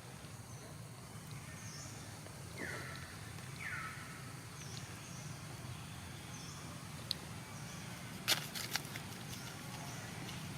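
Outdoor ambience with a steady low hum, two short downward-sliding animal calls a second apart, a few faint high chirps, and several sharp clicks about eight seconds in.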